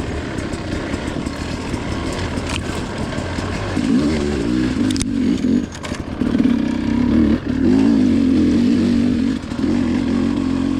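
Dirt bike engine running on a trail ride, louder and revving harder from about four seconds in, dropping off briefly about three times as the throttle is rolled off, with rough wind and trail noise underneath.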